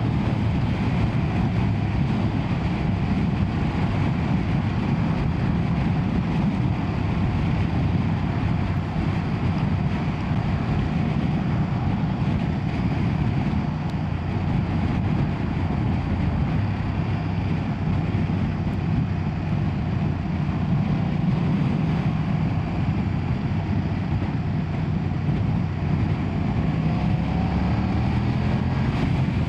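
BMW F900R's 895cc parallel-twin engine running steadily under way at a constant cruise, with its pitch rising a little near the end as the bike speeds up.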